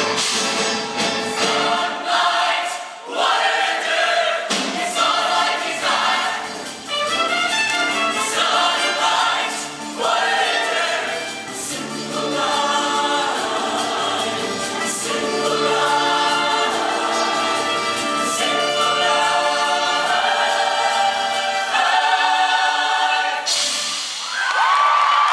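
Show choir singing in harmony over instrumental accompaniment. Near the end, audience cheering breaks in.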